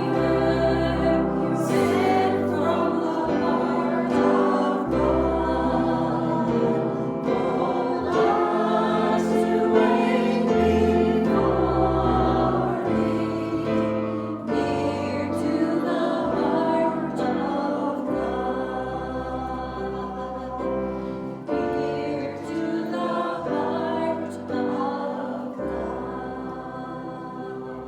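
Several voices singing a gospel song together over instrumental accompaniment with sustained bass notes, getting gradually quieter toward the end.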